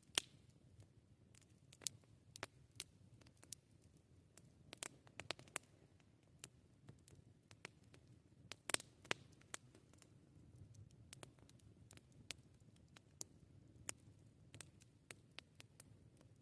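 Wood campfire crackling: irregular sharp pops and snaps, a few much louder than the rest, over a faint low rumble.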